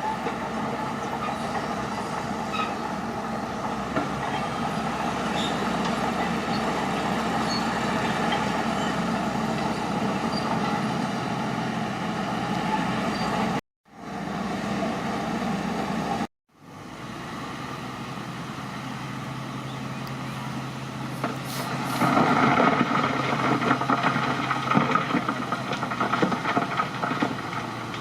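Crawler bulldozer at work: steady diesel engine running under the clatter of its steel tracks. The sound cuts out briefly twice in the middle and grows louder from about two-thirds of the way through.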